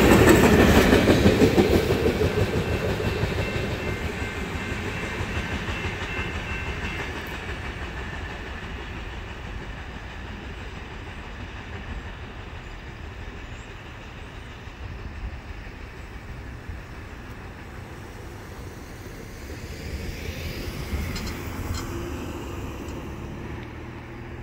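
Tail end of a freight train of open-top trash gondolas rolling past, steel wheels clacking over the rail joints. The rumble fades steadily over the first ten seconds or so as the train moves away. A faint swell of noise comes near the end.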